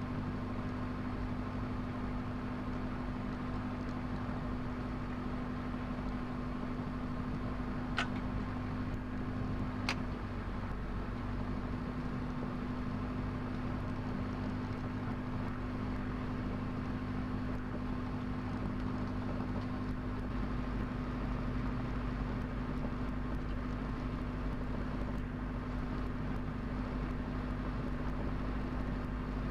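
Diesel engine of a Cessna 172 running steadily with an even, low hum from the propeller. Two sharp clicks come about 8 and 10 seconds in.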